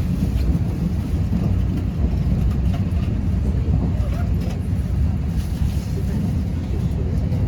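Steady low rumble of a train running, the constant noise of the ride with faint ticks and rattles over it.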